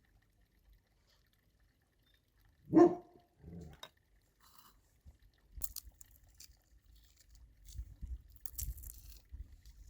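A dog barks twice: one loud, short bark about three seconds in and a softer one just after. Light clicks and clatter follow.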